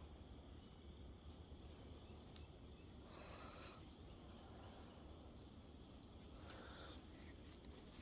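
Near silence: a faint, steady high insect drone, with two soft rustles, one about three seconds in and one near the end.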